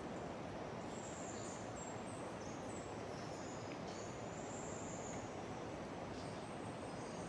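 Steady outdoor hiss with several high, thin bird calls, some whistled and some sliding, heard mostly between about one and five seconds in.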